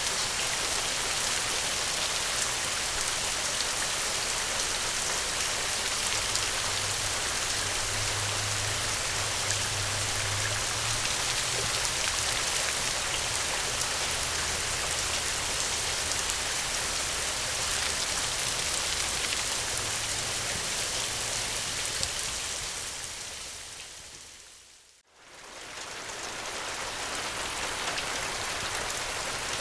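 Steady gentle rain falling. About three-quarters of the way in it fades down almost to silence, then swells back up within a couple of seconds.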